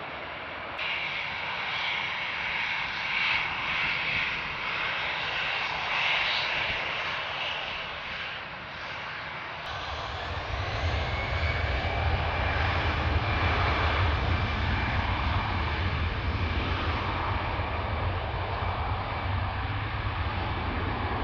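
Airbus A319 airliner departing, its jet engines running with a high fan whine. About halfway through, a deep engine rumble comes in abruptly and holds.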